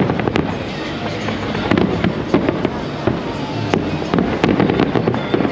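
Fireworks display going off continuously: many sharp bangs and crackles in quick succession over a dense wash of bursts.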